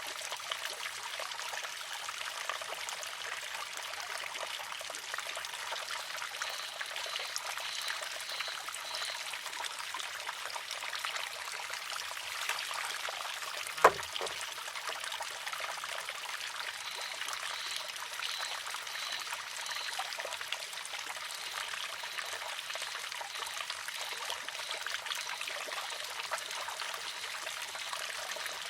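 Water trickling steadily into a wooden shishi-odoshi; about halfway through, the filled arm tips and strikes its rock once with a single sharp clack.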